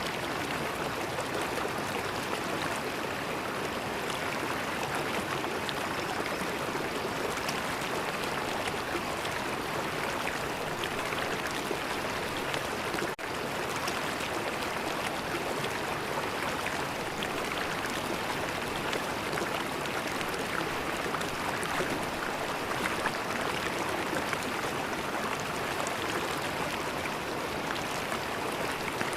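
River water flowing steadily over a streambed, an even rushing of running water. There is a momentary drop in level about halfway through.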